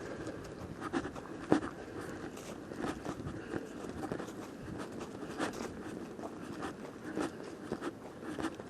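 Footsteps of a person walking, uneven steps about once or twice a second.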